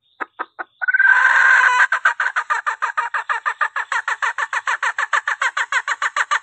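Female junglefowl call played as a lure to draw in males: three short clucks, a drawn-out cackle of about a second, then fast, even clucking at about six a second.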